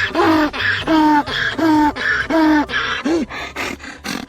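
A voice giving a run of short pitched calls, about two a second, each rising and falling in pitch; they thin out and weaken near the end.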